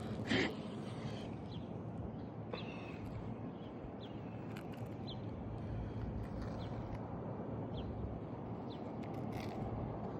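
A short puff of breath blown onto the asphalt shingles to clear loose granules, then steady outdoor background noise with faint high chirps repeating about every two-thirds of a second.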